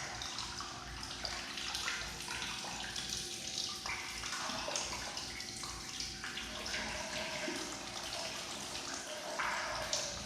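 Water running and splashing steadily as distilled water is flushed through a motorcycle's cooling system to rinse out the old coolant.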